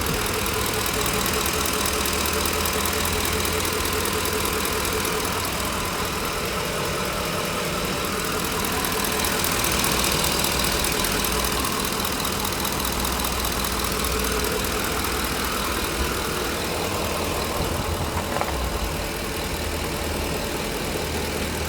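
The pickup's Triton 5.4-litre SOHC V8 idling steadily, heard from inside the cab under an even hiss, with a few faint clicks near the end.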